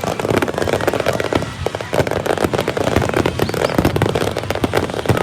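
Fireworks display going off in a dense, continuous barrage of overlapping bangs and crackling, many reports each second.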